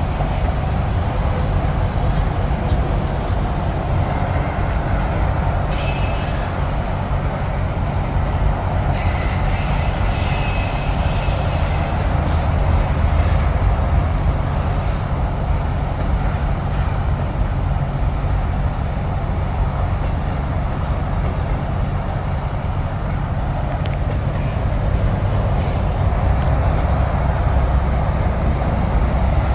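Freight cars of a CSX manifest train rolling slowly past, a steady rumble with a few faint, brief wheel squeals.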